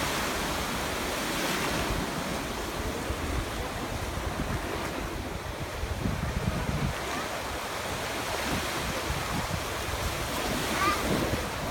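Stormy sea surf breaking and washing steadily, with wind buffeting the microphone in low, uneven rumbles.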